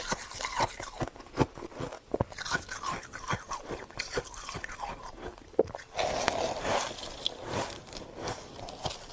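Freezer frost being bitten and chewed close to the microphone: a run of sharp, crisp crunches, with a denser stretch of grinding crunch about six seconds in.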